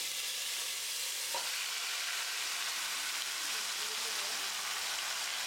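Hot ghee and oil sizzling steadily as marinated chicken goes into a pot of frying spice masala.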